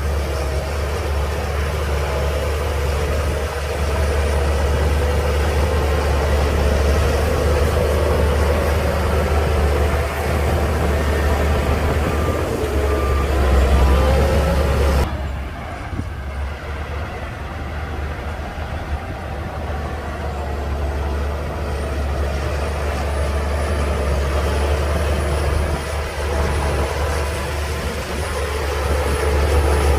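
Shantui DH17C2 crawler bulldozer's diesel engine working with a steady low drone. Its pitch rises briefly about halfway through, then the sound changes abruptly and carries on at a slightly lower level.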